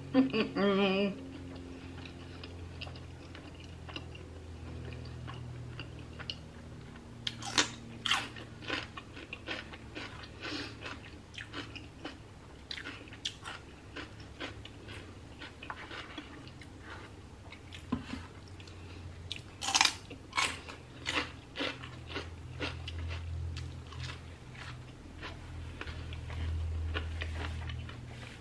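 Close-miked biting and chewing of a pan-fried flour-tortilla quesadilla, with irregular crunches and wet mouth sounds, the loudest crunches about 8 and 20 seconds in. A short hummed voice comes right at the start.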